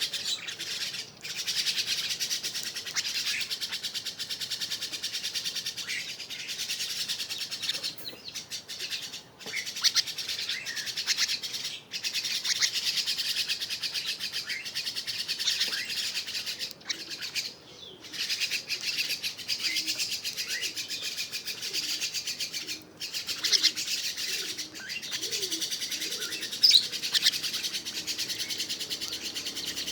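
A starling (jalak) chattering and twittering in a near-continuous high-pitched stream, broken now and then by brief pauses.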